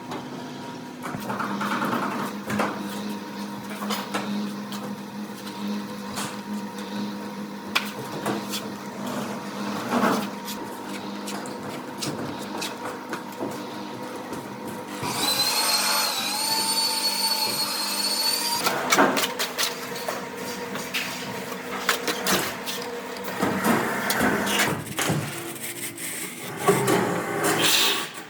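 Construction work: scattered knocks and taps of hand work, with a power tool's motor whining steadily for about three and a half seconds past the middle.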